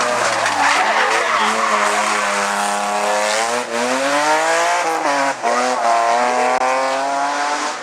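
Hillclimb race car engine accelerating hard. The revs climb, drop sharply at a gear change about halfway through, drop again about a second and a half later, then climb once more.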